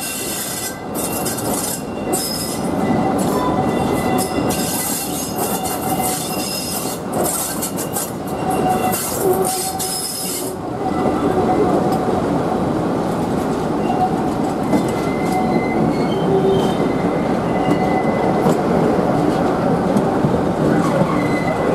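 Passenger train carriage running round a curve behind a diesel locomotive: wheels squealing against the rails, with sharp clicks, for the first half. About halfway through the squeal stops and a steadier, slightly louder rumble of the running train takes over.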